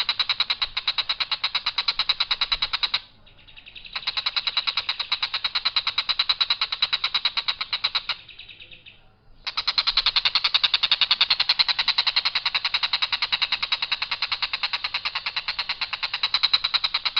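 Tengkek buto kingfisher calling a long, harsh, rapid rattle of about nine high notes a second, in three long runs with brief pauses between them.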